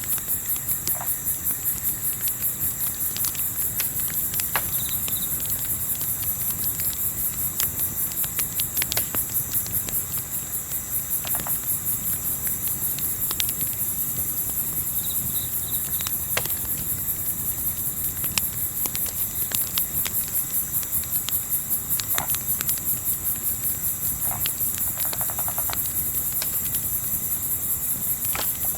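Crickets chirping continuously in a steady, high-pitched pulsing chorus, with the scattered sharp pops and crackles of a campfire and a low background rumble.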